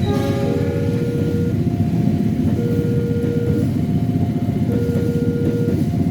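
Railroad level-crossing warning alarm sounding a repeating two-tone signal, a lower and a higher tone taking turns about once a second. Underneath is a steady low rumble of engines.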